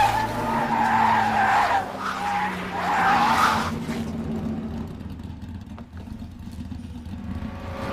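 Race car tyres squealing in a hard, wavering skid for about three and a half seconds, then dying down to a lower, steady rumble.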